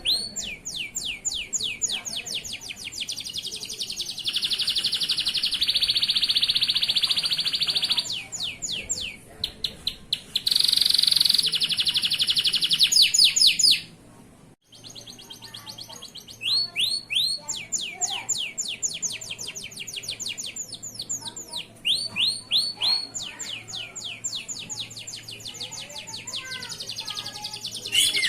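Male local canary singing continuously (gacor): long runs of fast repeated high chirps alternating with sustained rolling trills, broken off by a brief gap about halfway through.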